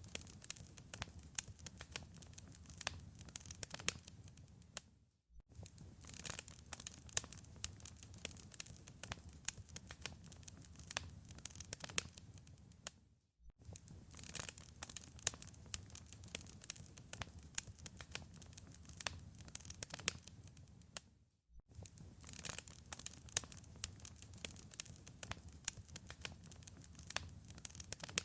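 Wood fire crackling in a fireplace: a dense stream of small pops and snaps over a low rumble. The sound dips to silence for about half a second roughly every eight seconds, three times.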